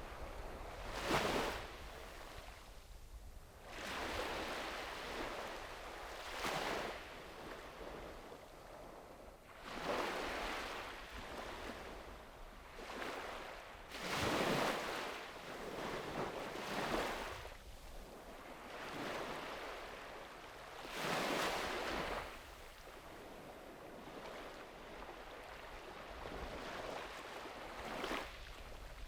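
Sea waves breaking and washing ashore in irregular surges every few seconds, each swelling and then fading away. The strongest washes come about a second in, about halfway through and around two-thirds of the way, over a low steady rumble.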